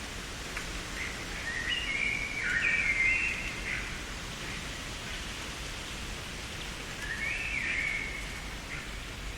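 A songbird sings two phrases of quick stepped whistled notes, one from about a second and a half in and a shorter one near the end, over a steady background hiss.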